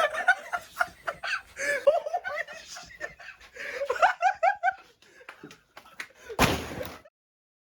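Young men laughing, with a quick run of 'ha-ha' bursts about four seconds in and a few sharp slaps or smacks among it. A loud half-second burst of noise comes near the end, and then the sound cuts out.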